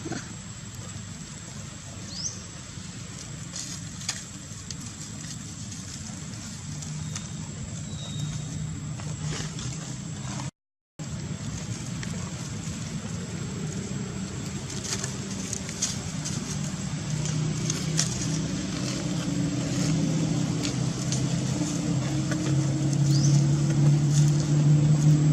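A motor vehicle engine running, with a low steady hum that grows louder through the second half. There is a short gap of silence about ten seconds in.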